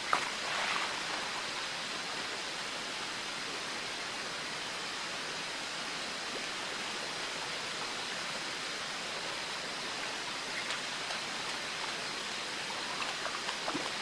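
Flowing water in a shallow man-made water-play channel: a steady rushing and babbling. A short knock right at the start and a few faint small splashes near the end.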